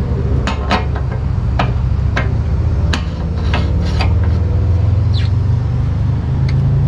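Suzuki Hayabusa's inline-four engine idling steadily, with a series of sharp clicks and knocks over the first four seconds.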